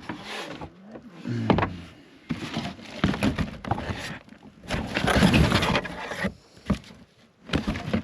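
Rustling and scraping in uneven bursts, with a few sharp knocks, as truck side-mirror assemblies are handled and turned over.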